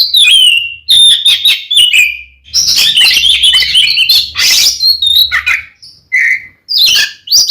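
Oriental magpie-robin (kacer) singing loudly in its fighting song, the kind used to provoke rival kacer: fast, varied phrases of whistles, sliding notes and rapid clicking chatter, broken by short pauses.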